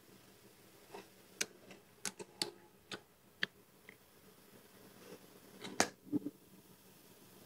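Close-up mouth sounds of someone biting and chewing pieces of caramelized pork (thịt ram). There is a scattering of short, crisp clicks and crunches, with a quiet gap between about four and five seconds in.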